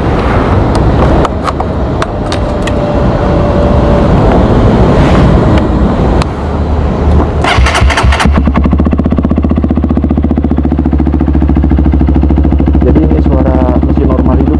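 Honda CRF 150L's single-cylinder four-stroke engine, breathing through a Norifumi RV1 type N4 aftermarket exhaust, started and running. It is uneven at first, then settles into a steady idle about eight seconds in.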